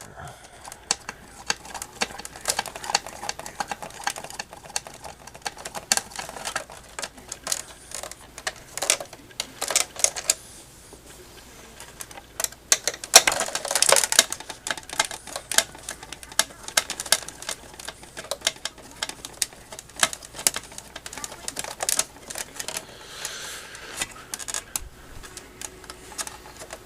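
Irregular clicks, taps and rattles of a plastic clock radio housing being handled and pried apart, with a denser burst of clatter about halfway through.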